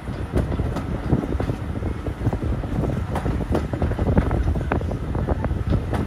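Steady low rumble of a moving railway carriage with many irregular knocks and rattles, and wind buffeting the microphone.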